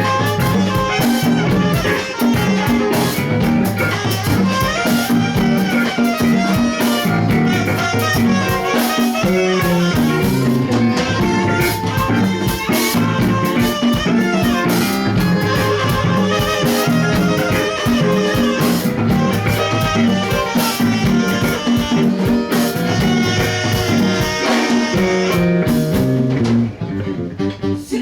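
A live band plays a full-band song, with a drum kit keeping a steady beat over a repeating bass line and several melody instruments. Near the end the drums drop out and the music thins.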